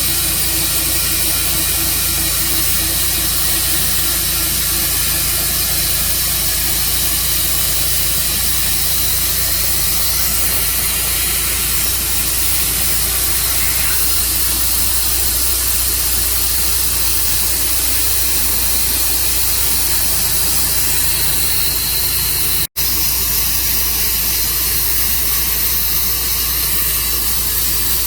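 Portable sawmill running steadily, an engine's even drone under a strong hiss. The sound cuts out for an instant about three-quarters of the way through.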